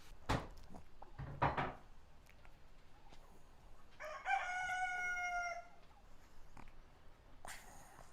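A rooster crows once, about four seconds in: one long call of about a second and a half. A few sharp knocks come in the first two seconds, about as loud as the crow.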